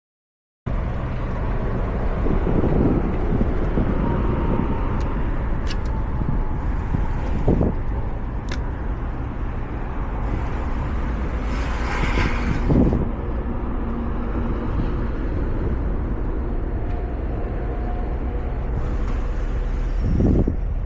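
A steady, loud low rumble of a running engine mixed with wind buffeting the microphone. A few dull knocks come through, and a louder rush of noise about twelve seconds in.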